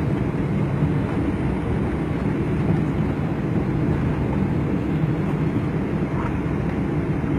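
Steady low rumble of an airliner heard from inside the passenger cabin: engine and airflow noise of the plane on its landing run or taxi.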